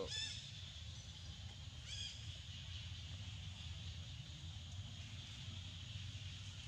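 Two short harsh bird calls, one right at the start and another about two seconds in, over a steady high hiss and a low background rumble.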